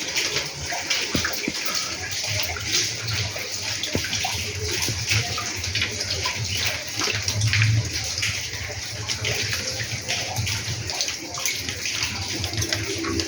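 Steady splashing, rushing water with a dense crackle of small drops throughout.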